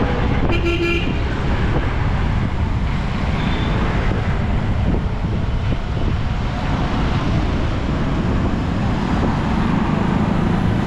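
Steady road traffic noise, with a short vehicle horn toot about half a second in.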